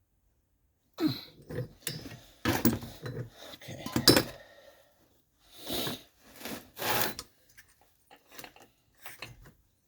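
Metal tools and small engine parts being handled on a workbench: a series of sharp clinks and knocks, then two longer scrapes, then a few light clicks.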